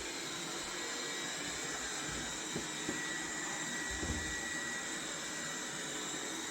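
Laresar Mars01 robot vacuum cleaner running: a steady whir with a thin high whine, and a few soft knocks about halfway through.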